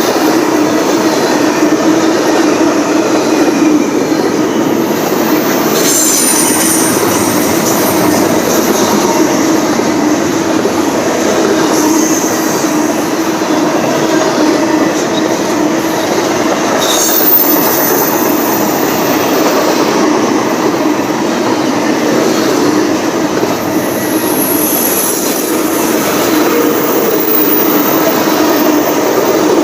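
Freight train cars rolling past: a steady, loud rumble of steel wheels on rail, with a few brief high-pitched wheel squeals.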